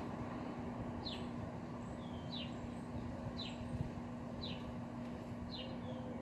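A bird repeating a short, high, falling chirp about once a second, over a steady low hum.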